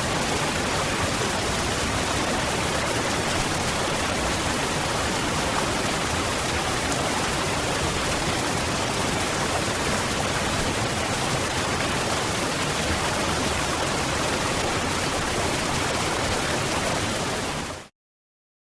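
Waterfall: a steady, even rush of falling water that fades out near the end into total silence.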